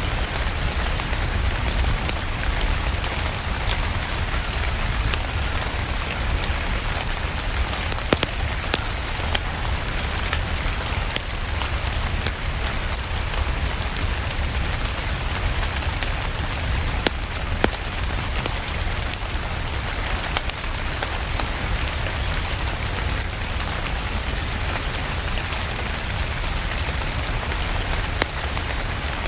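Steady rain with a low rumble underneath, dotted with scattered sharp pops and crackles from a wood fire.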